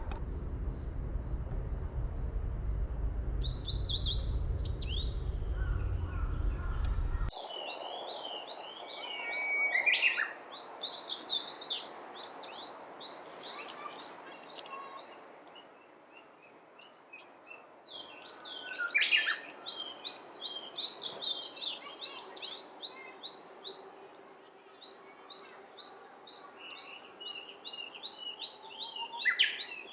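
Wild songbirds singing: long runs of rapid, high, repeated notes, with a few louder calls about 10 and 19 seconds in. A low rumble underneath stops abruptly about 7 seconds in.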